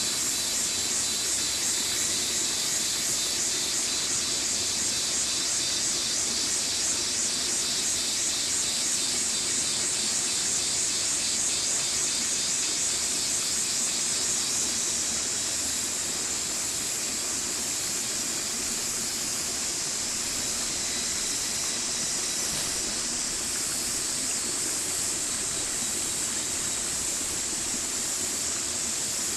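Stream water rushing and splashing steadily over rocks, a constant bright hiss that drops slightly in level about halfway through.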